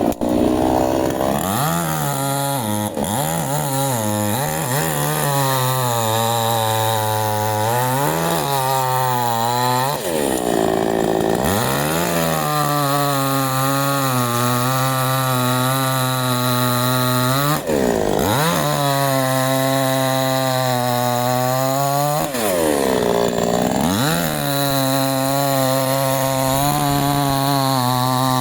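Canfly 5800 two-stroke chainsaw cutting wood. The engine pitch drops and holds steady while the chain is loaded in the cut, then sweeps sharply up as the saw revs free between cuts, several times over.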